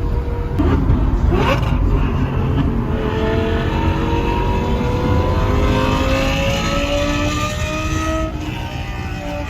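Lamborghini Gallardo Superleggera's naturally aspirated 5.0 V10 with aftermarket exhaust pulling hard, heard from the cabin. A quick rev about a second in, then the pitch climbs steadily through a gear and drops at an upshift near the end before climbing again.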